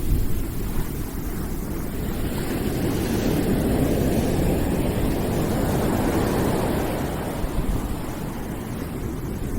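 Steady, deep rushing noise used as a calming background sound, swelling gently over a few seconds in the middle and then easing back.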